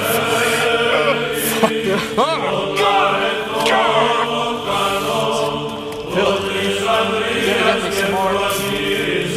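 Chanted choral music over a steady held drone.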